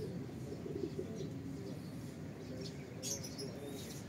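Doves cooing repeatedly, with faint chirps of small birds. A brief rustle about three seconds in.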